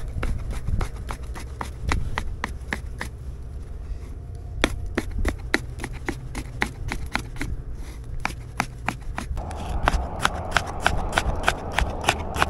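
Kitchen knife chopping food on a cutting board in a steady run of sharp strokes, about three to four a second.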